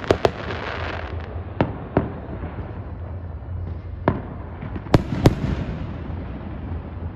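Fireworks going off around the neighbourhood: scattered sharp bangs of salutes and firecrackers, several in the first two seconds and a close pair about five seconds in, over a steady low rumble and a crackling hiss.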